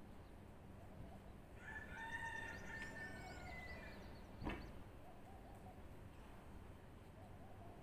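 A rooster crowing once in the distance for just under two seconds, overlapped by quick high chirps of small birds, with a faint steady background hiss. A single sharp knock about four and a half seconds in.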